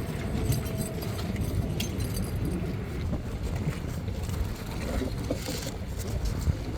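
Steady low rumble of a running engine, with scattered small clicks and knocks.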